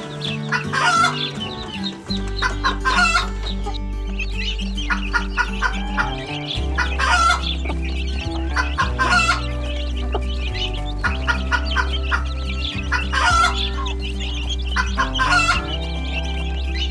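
Chickens clucking in short bursts that recur every couple of seconds, over background music with a steady, stepping bass line.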